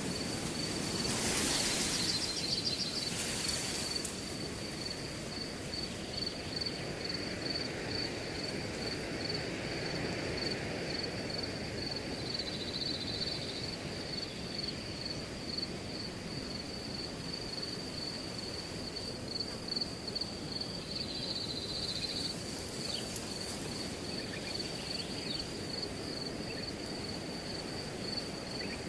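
Wind rushing through grass, with a stronger gust in the first few seconds, under a cricket chirping in a fast, even, unbroken trill.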